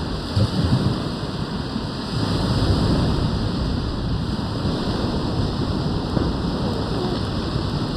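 Steady rushing noise of wind and water, with low, uneven rumbling gusts buffeting the microphone.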